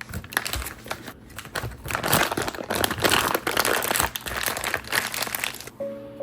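Crinkling and rustling of wrapping being handled, irregular and close, stopping about five and a half seconds in; soft music with piano notes starts near the end.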